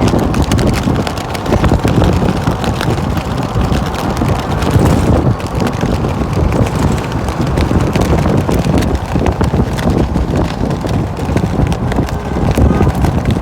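Parade vehicles running past, heavily overlaid by wind buffeting the microphone.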